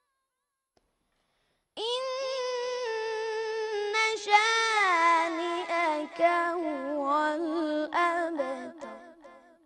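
A child's voice chanting Quran recitation unaccompanied: one long drawn-out melodic phrase with ornamented turns, starting about two seconds in and sinking lower in pitch near the end.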